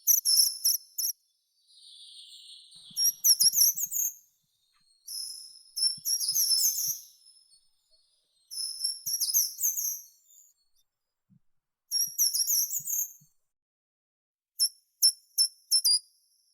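A songbird singing short, very high, quickly warbled phrases about a second long, repeated every few seconds, with a run of sharp separate notes near the end.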